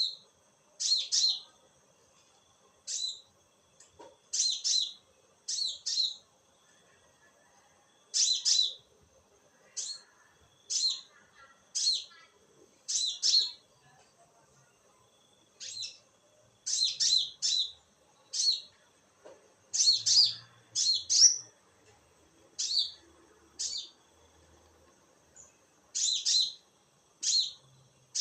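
A small bird, the one known locally as a konin, calling in short, high chirps, one or two at a time, about one every second with irregular pauses.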